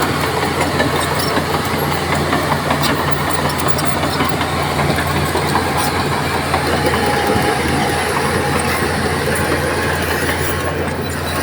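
Heavy diesel engine of earthmoving machinery running steadily, with scattered light clanks.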